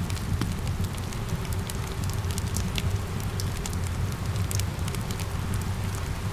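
Wood fire crackling with frequent irregular sharp pops over a steady low rush, mixed with a constant patter of rain.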